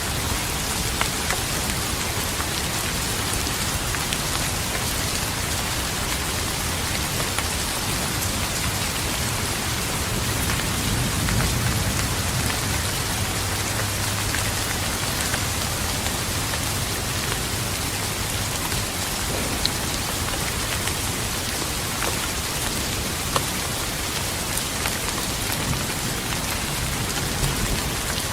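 Steady rain falling, with scattered drops ticking on a close surface. A low rumble of thunder swells about ten seconds in and rolls on for several seconds.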